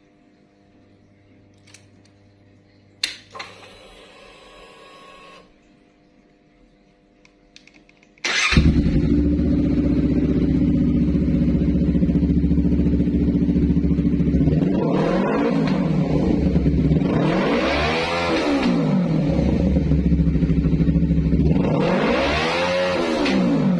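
A 250cc sport motorcycle engine starts about eight seconds in and idles. It is revved three times, each rev rising and falling back to idle. Before it starts there is a sharp click and a short hiss.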